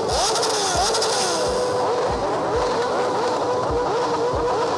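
Several sport-bike engines running and revving together, their pitches rising and falling over a steadier engine note.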